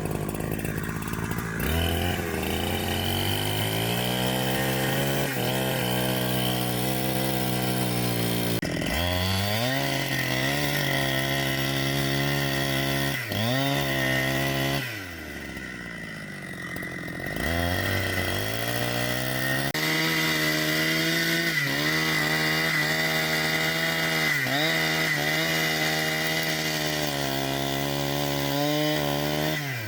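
Two-stroke chainsaw cutting into a tree, held at high revs and revved up three times, easing down to a quieter idle for a couple of seconds about halfway.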